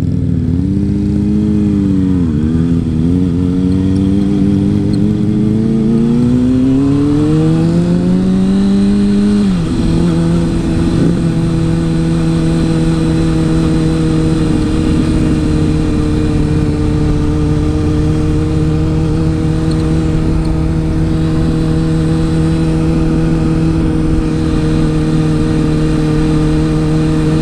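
Motorcycle engine heard from the rider's seat: the revs dip briefly, climb steadily for several seconds under acceleration, fall sharply at an upshift about nine seconds in, then hold a steady cruising note. A steady rush of wind noise runs under it.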